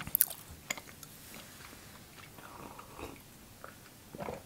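Close-miked chewing of soft pine-nut brittle, with a few crisp clicks and crunches in the first second. Near the end comes a short sip from a mug.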